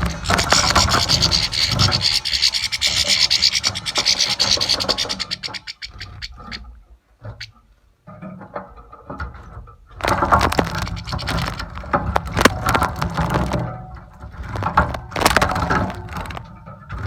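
Goldfinch bathing, splashing and flicking water in a shallow bath in rapid bouts, with a lull in the middle.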